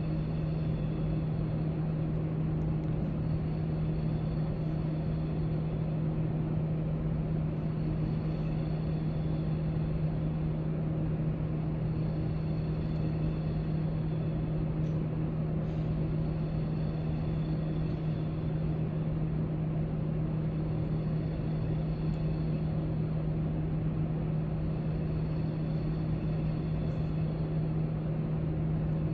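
Steady library room ambience: a constant low hum over an even background noise, with a few faint light ticks now and then.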